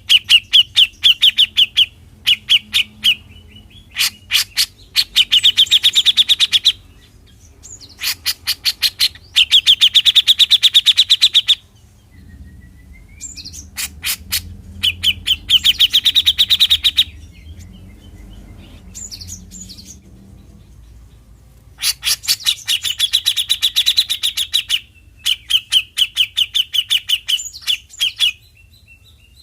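Grey-cheeked bulbul (cucak jenggot) giving its rapid rattling 'besetan' song: runs of fast, clicking trills, each a second or three long, with short pauses between. There is a faint short rising whistle in one pause.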